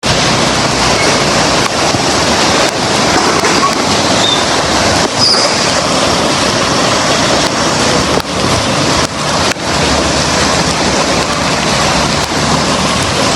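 Loud, steady rushing of water, a dense even noise with a faint low hum beneath it and a few brief dips.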